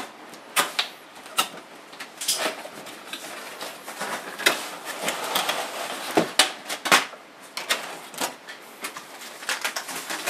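A helicopter's retail box and its packaging being opened and handled: irregular clicks, knocks and rustling scrapes.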